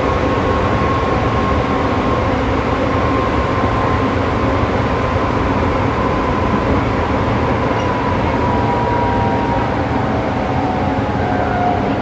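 Electric commuter train running between stations, heard from inside the car: a steady rumble of wheels and running gear, with a faint whine that slowly falls in pitch.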